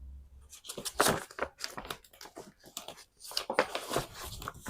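Paper rustling and crinkling as sheets are handled and searched through, in a run of uneven crackles and rustles.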